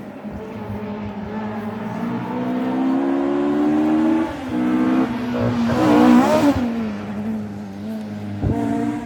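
A rally car's engine accelerating hard, climbing in pitch, with a short break about four seconds in that sounds like a gear change. It then revs up again and is loudest about six seconds in, as it passes close by. The note then drops away as the car moves off.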